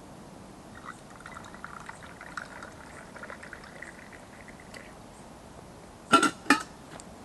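Liquid pouring in a thin stream for about four seconds, then two sharp knocks about half a second apart near the end.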